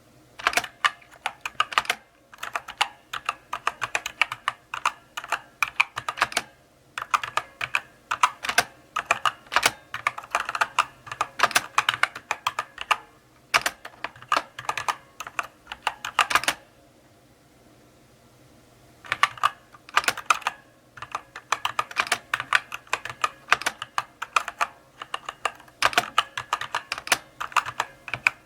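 Slow typing on a mechanical keyboard: runs of key clicks broken by short pauses, with a longer pause of about two seconds a little past the middle.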